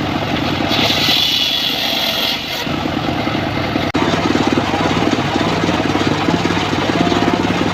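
Home-built engine-driven circular sawmill running, with a high whine for about two seconds near the start as the blade works through teak. A sharp break comes just under four seconds in, after which the engine runs on with a steady pulsing beat.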